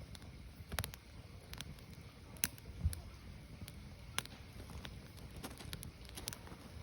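Firewood logs burning: irregular sharp crackles and pops, a few of them louder snaps, over a low steady rumble of the fire.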